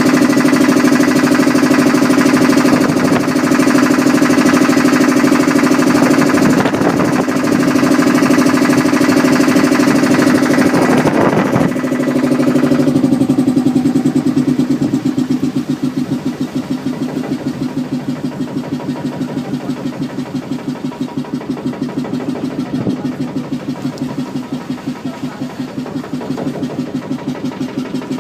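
Motorboat engine running with a steady, fast chugging beat. About halfway through it becomes quieter, and its beat stands out more plainly.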